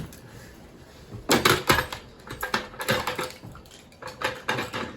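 A quick run of clattering clicks and knocks from hard objects, starting about a second in and going on irregularly.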